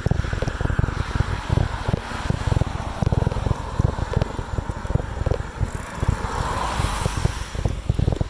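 Wind buffeting the microphone on a moving bicycle, a constant low rumbling flutter over road noise, with a louder rush swelling and fading about six to seven and a half seconds in.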